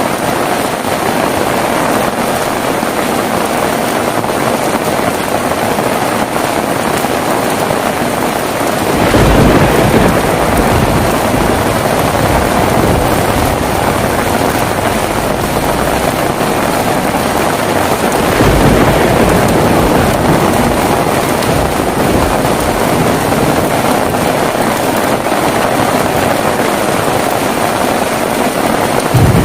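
Heavy rain falling steadily, with deep rolls of thunder rumbling in twice, about a third of the way in and again a little past the middle.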